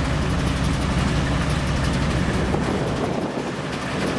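Diesel locomotive engine running with a steady low hum, which drops away about three seconds in.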